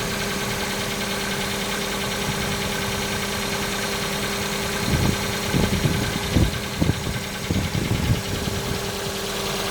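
Hyundai Accent MC engine idling on a cold start. About halfway through there are a few seconds of irregular knocking, a slight cold-start knock that the owner puts down to the camshaft timing chain.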